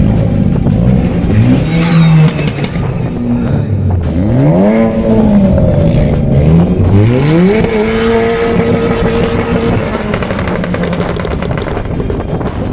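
Car engine accelerating hard: the pitch climbs, drops at a gear change, climbs again, then holds steady for a couple of seconds.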